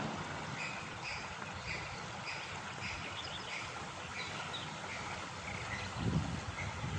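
A small bird chirping, short high calls about twice a second over a steady outdoor hiss. About six seconds in, low bumps of wind or handling on the microphone come in.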